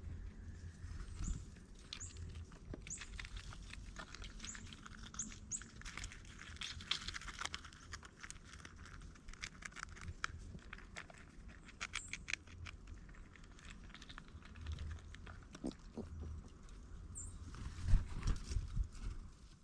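Birds and squirrels feeding at a ground feeder close to the microphone: irregular tapping, pecking and scratching on the feeder, with a few short high chirps and a louder run of knocks near the end.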